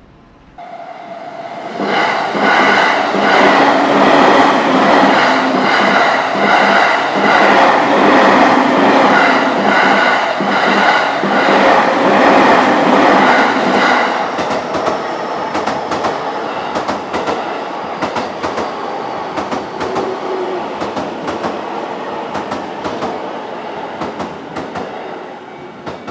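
A JR Tokaido Line train passing close by over a level crossing, its wheels clattering rhythmically over the rail joints. It builds quickly about a second in, stays loud for roughly twelve seconds, then fades gradually with scattered clicks as the last cars go by.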